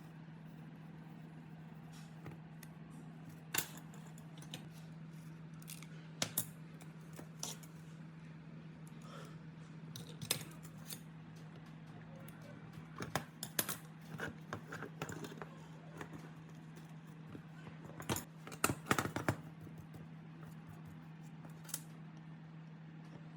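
Scattered clicks and clinks of small metal parts and hand tools being handled, in irregular clusters, over a steady low hum.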